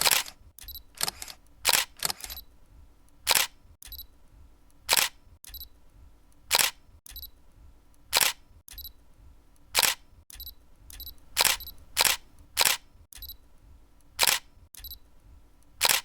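Sharp mechanical clicks repeating evenly, about every second and a half, each followed by a fainter click.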